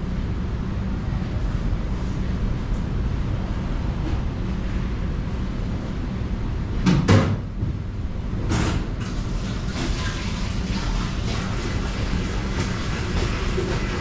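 Steady low rumbling background noise with two sharp knocks or clatters about halfway through, about a second and a half apart.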